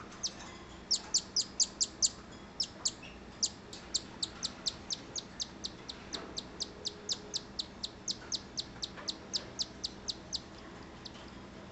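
Two-day-old cockatiel chick giving rapid, high, rhythmic food-begging peeps while being handfed, about three a second, stopping shortly before the end.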